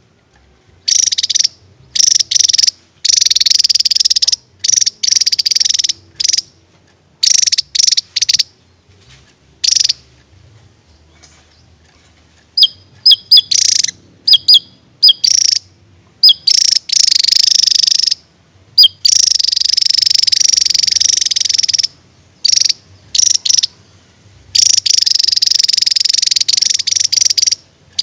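Javan tesia singing: repeated loud bursts of buzzy, rapid trilled song, each lasting from under a second to a few seconds, broken by short pauses. A run of short, sharp single chirps comes about halfway through.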